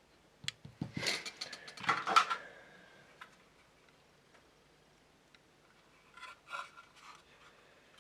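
Small plastic model-kit parts and tools being handled on a workbench: a quick cluster of clicks and rattles in the first couple of seconds, then a few fainter scrapes and clicks around six seconds in.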